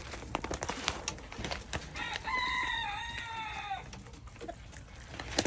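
A rooster crowing once, a single long call of nearly two seconds, slightly falling at its end, with scattered sharp taps from chickens pecking at dried mealworms before it.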